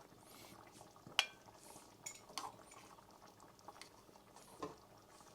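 Utensil clinking and scraping against dishware as food is served onto a plate: one sharp clink about a second in, then a few softer clinks.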